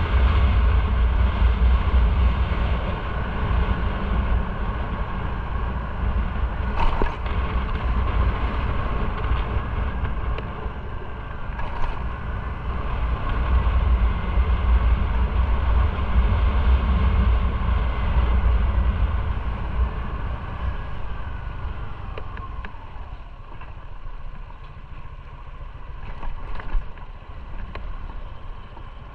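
Motorcycle underway, its engine running under heavy wind rush and road noise. About three-quarters of the way through the engine note falls and the sound quiets as the bike slows.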